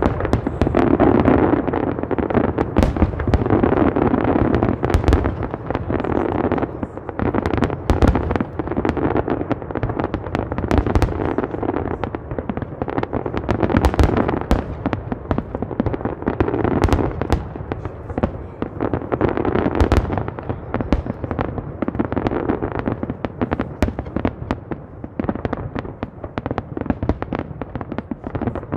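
Fireworks going off continuously: a rapid barrage of bangs and crackling reports over a steady rumble, thinning out a little towards the end.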